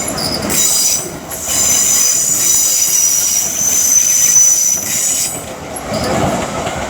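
Wheels of a departing Class 350 Desiro electric multiple unit squealing against the rails at low speed. A high-pitched squeal starts in short bursts, then holds steady for about four seconds before fading near the end, leaving the train's rumble.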